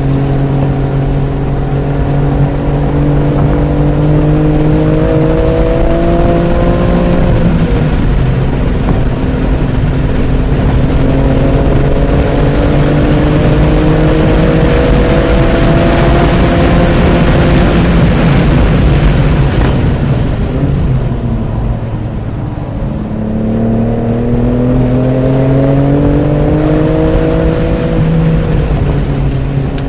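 2018 BMW M3 Competition's twin-turbo inline-six under hard acceleration on track, climbing in pitch through the gears with a break for a shift about seven seconds in. A long slower pull follows under rising rushing noise, then the car eases off around twenty seconds before accelerating hard again and shifting near the end.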